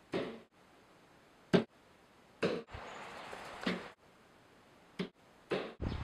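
A bird repeatedly flying into a window pane: a series of about six sharp knocks on the glass at uneven intervals, the loudest about a second and a half in, with wings fluttering against the glass between strikes.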